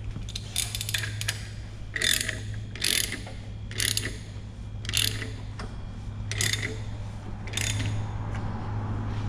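Hand ratchet worked in strokes roughly once a second, each stroke a short burst of clicks, turning a puller against a very tight harmonic balancer on a Ford 5.0 Coyote V8. A steady low hum runs underneath.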